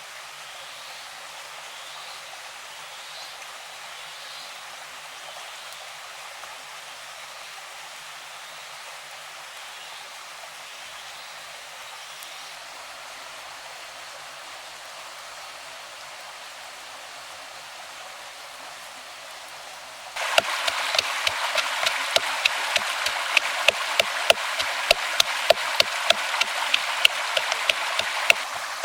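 Stream water running steadily. About twenty seconds in, the water gets suddenly louder, with many sharp splashes in quick succession.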